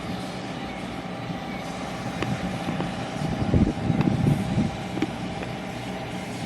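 Engine running steadily, with a louder low rumble for about a second and a half near the middle, like a motor passing close by.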